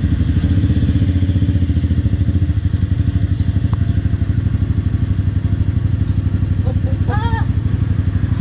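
Benelli Motobi 200 Evo's single-cylinder engine idling steadily with a fast, even pulse.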